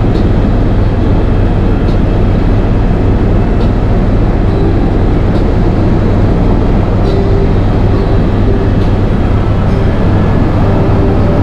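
Helicopter cabin noise in flight: a loud, steady drone of engine and rotor with a deep hum.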